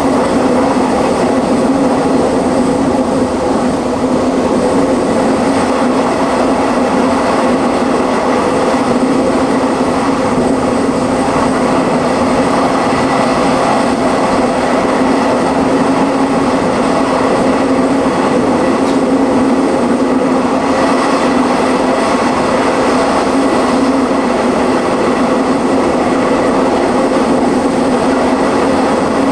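Passenger train running steadily at speed, heard from inside the carriage: a continuous rumble of wheels on the track with a steady low hum.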